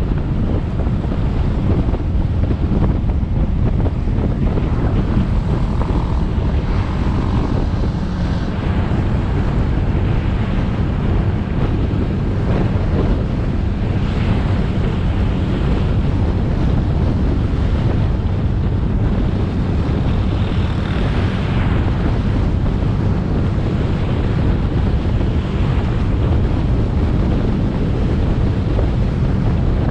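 Motorcycle riding along a road: steady wind rumble on the action camera's microphone over the engine and road noise, with no big changes.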